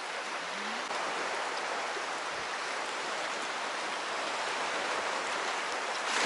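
Steady rushing wash of sea water along the shore.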